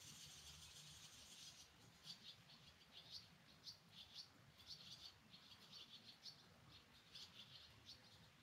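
Faint, quick bird chirps, a dense run at first and then short calls a few times a second, over a soft steady hiss of rain.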